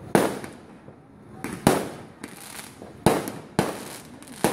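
Aerial fireworks exploding: five sharp bangs a second or so apart, each trailing off in a fading echo.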